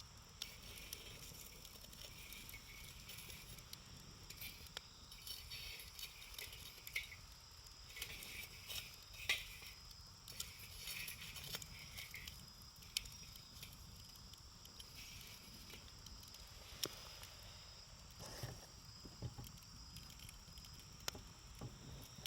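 Wood campfire crackling, with irregular sharp pops and snaps over a soft hiss; the loudest pop comes about nine seconds in.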